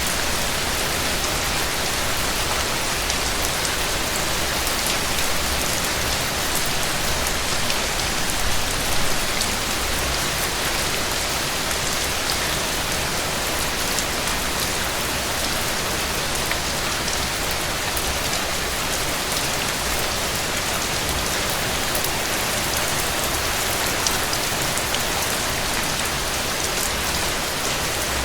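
Heavy rain falling steadily, a dense even hiss with scattered small ticks and pops, and a brief swell about a third of the way in.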